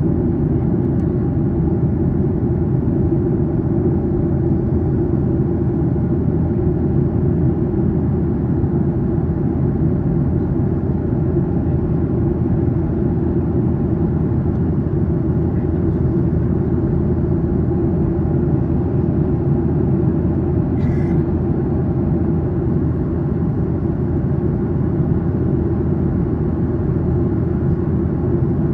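Steady cabin noise of a Boeing 737-800 during the climb: the even, low drone of its CFM56-7B engines and airflow over the fuselage, with a few steady hums. A brief faint high sound about three quarters of the way through.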